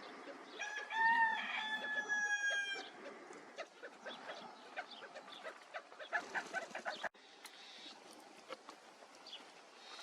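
A bird's call: one loud, drawn-out, slightly wavering note lasting about two seconds near the start, followed by scattered short clicks and faint notes.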